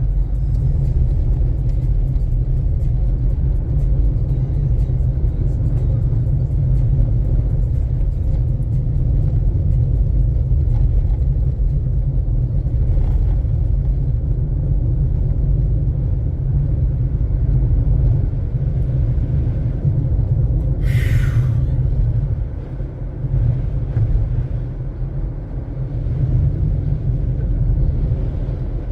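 A car driving, heard from inside the cabin: a steady low rumble of engine and tyres on the road. A brief higher-pitched sound cuts in for about a second about two-thirds of the way through.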